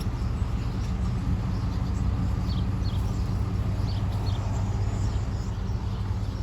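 Outdoor ambience: a steady low rumble, with a few faint, short bird chirps in the middle.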